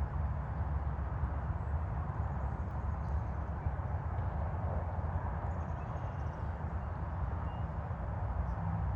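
Steady outdoor ambience: a continuous rush of distant highway traffic over a low rumble, with a few faint bird chirps in the middle.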